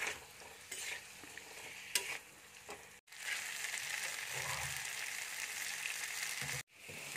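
Potato and pointed gourd (parwal) pieces frying in mustard oil with a spice paste, a steady sizzle with the occasional click of a spatula as they are stirred. The sound cuts out suddenly for a moment twice, about three seconds in and near the end.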